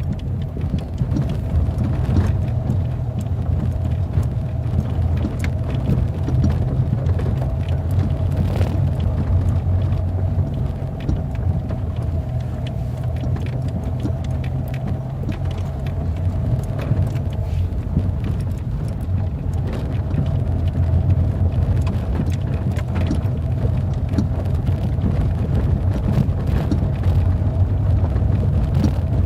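A vehicle on the move: a steady low rumble with a faint steady hum over it and scattered light clicks.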